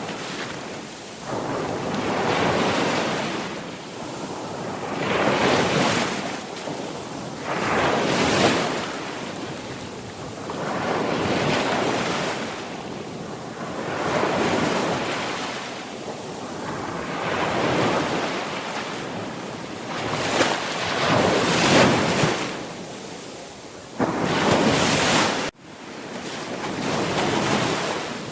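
Sea waves breaking and washing on a shore, one swell after another every two to three seconds. Near the end the sound drops out abruptly for an instant and comes straight back.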